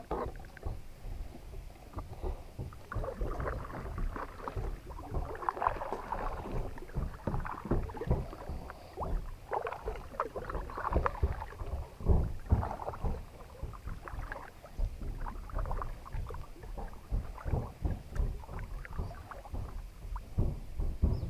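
Kayak on the water: irregular paddle splashes and light knocks and thumps, with no steady rhythm.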